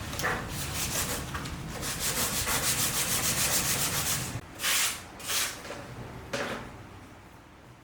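Sandpaper rubbing over a carbon-fibre-skinned scooter front shield: fast, even strokes at first, then a few separate strokes before it fades out near the end. This is the final sanding that smooths the surface flat.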